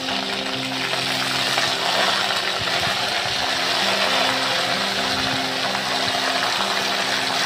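Sliced onions and green chillies sizzling in hot oil in a wok: a steady frying hiss. Soft background music with held notes plays underneath.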